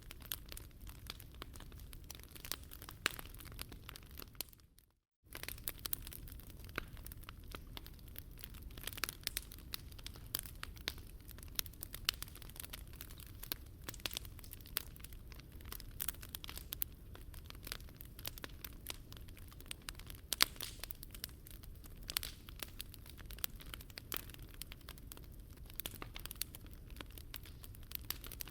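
Wood fire crackling, with frequent sharp pops over a low steady rumble. The sound cuts out completely for about half a second around five seconds in.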